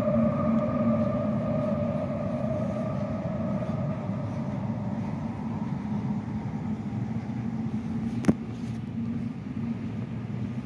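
Electric train whine fading away down the tunnel over the first few seconds, over the steady low rumble and hum of an underground station and a running escalator. A single sharp click comes about eight seconds in.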